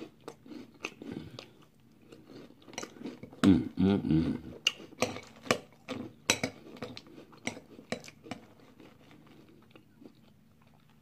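Close-up chewing and crunching of a mouthful of Pop-Tarts brown sugar cinnamon cereal in milk, with a fork clinking and scraping against the bowl in scattered sharp clicks. A short voiced murmur comes about four seconds in.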